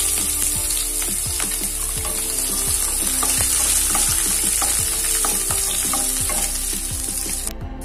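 Garlic, ginger, chana dal and urad dal sizzling in hot sesame oil in a kadai, stirred with a spatula that scrapes and clicks against the pan. The sizzle breaks off briefly near the end.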